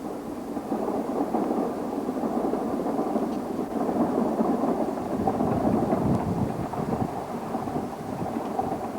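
Narrow-gauge train running, a dense steady rumble of noise that swells a little through the middle.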